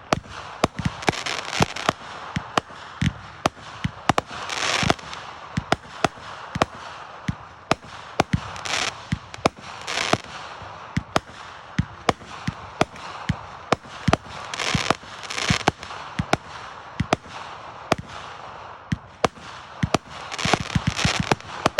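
Fireworks going off: a steady run of sharp bangs and pops, with longer bursts of crackling every few seconds.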